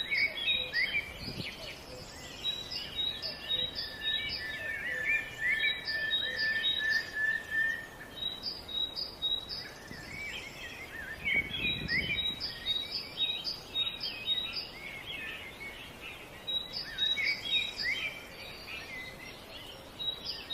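Several wild birds singing and chirping together, with quick slurred notes and a repeated short high note. A long steady trill runs from about four seconds in to about eight seconds in.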